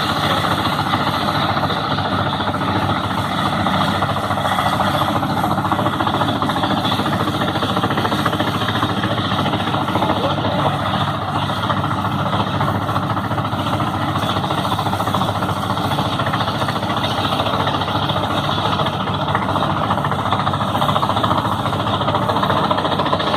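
Truck-mounted wood chipper running steadily, a loud, continuous mechanical noise with a fast rattling pulse.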